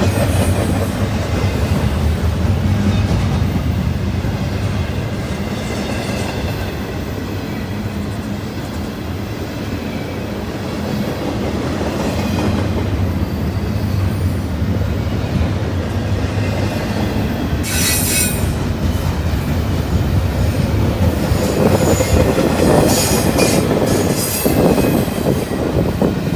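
Freight train cars rolling past on steel rails in a steady rumble, with clacking over the rail joints and thin wheel squeal. A short, sharp high screech comes about 18 seconds in, and the rattling grows louder near the end.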